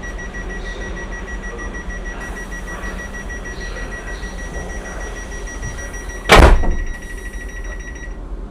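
Steady high-pitched electronic tone on board a train, stopping near the end, over the steady low hum of the train. A single loud thud about six seconds in.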